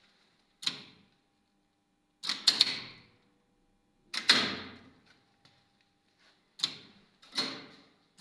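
1980s KMZ elevator machinery clacking: five sharp clacks, one of them doubled, each ringing out for a moment, over a faint steady hum.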